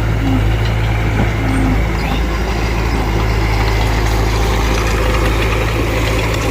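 Heavy diesel engine of earthmoving machinery running steadily at an even, low pitch.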